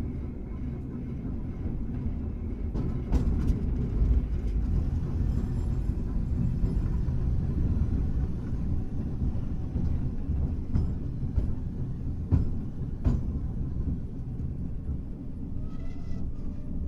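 Hankai Tramway car No. 351 running along the track, a steady low rumble of wheels on rail. Several sharp clacks from the wheels over the track come a few seconds in and again around twelve to thirteen seconds, and there is a brief thin squeal near the end.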